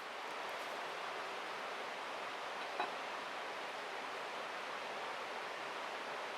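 Steady rushing outdoor noise, even and without rhythm, with a single sharp click a little under halfway through.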